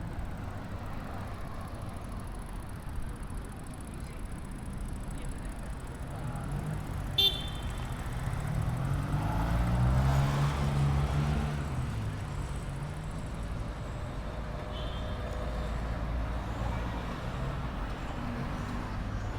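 Street traffic rumbling, with a motor vehicle's engine growing louder as it passes close and then fading about halfway through. A single very short, high-pitched beep sounds just before the vehicle goes by.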